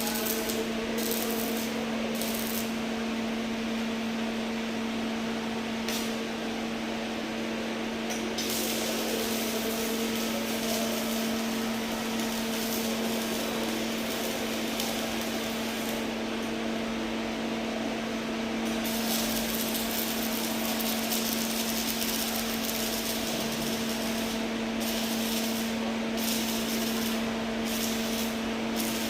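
Arc welding: the arc crackles and hisses in long runs, with short breaks, over a steady low hum.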